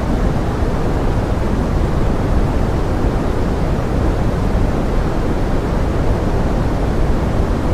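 Steady pink noise blended with forest rain: a dense, even hiss, heaviest in the low range and fading toward the top, with no separate drops or other events standing out.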